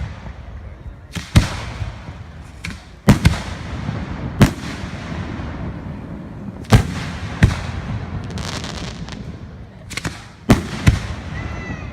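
Fireworks bursting: a string of about eight sharp booms a second or two apart, each trailing off in a rumbling echo, with a stretch of crackling about eight seconds in.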